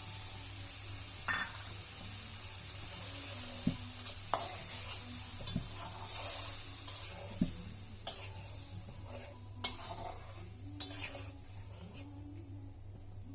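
Food sizzling in a hot pan while a spatula stirs it, with scrapes and clicks of the utensil against the pan; the sizzle dies down over the second half.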